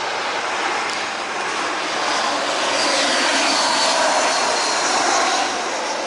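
Jet airliner on landing approach passing low overhead, a steady rushing engine noise that swells in the middle, with a whine that falls in pitch as it goes by.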